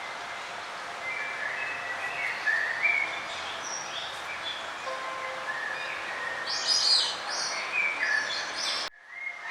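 Songbirds singing, a run of short whistled and chirping notes over a steady background hiss; the sound cuts out for about half a second near the end, then the chirping resumes.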